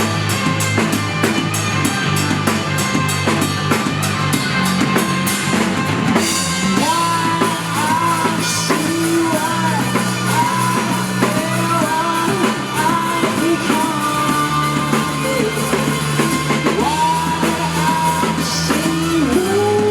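Live rock band playing: drum kit, bass and guitar, with quick even cymbal strokes at first, and a singing voice coming in about six seconds in and carrying on over the band.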